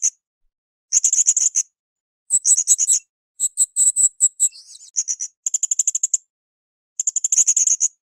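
Blue-crowned hanging parrot (srindit) calling: short bursts of rapid, very high-pitched chattering notes, about six bursts with dead-silent gaps between them.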